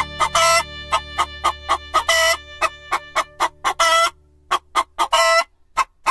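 Rapid run of short, pitched bird calls, about three to four a second, with a longer, louder call roughly every one and a half seconds. A low steady hum lies under them and stops about four seconds in.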